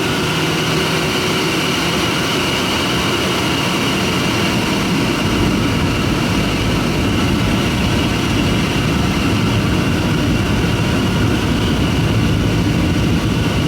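Airliner engine noise heard from inside the passenger cabin: a loud, steady rumble and hiss. It grows a little louder and deeper about five seconds in.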